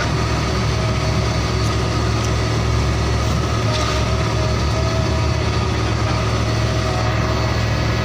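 A truck engine idling steadily with a low, even hum.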